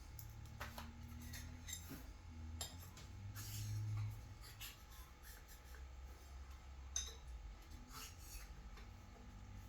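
Scattered light clicks and clinks of small items being handled, over a steady low hum, with a sharper click about seven seconds in.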